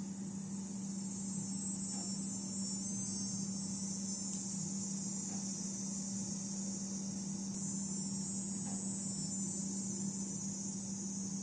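Insects trilling in a dense, high-pitched chorus that swells twice, over a steady low hum.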